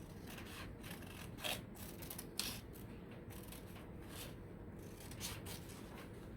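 Scissors cutting paper along an outline: a run of short, irregularly spaced snips, the loudest about two and a half seconds in.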